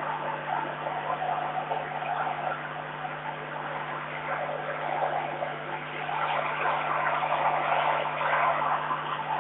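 Strong gusty wind rushing over the microphone, swelling and easing every few seconds, over a steady low electrical hum.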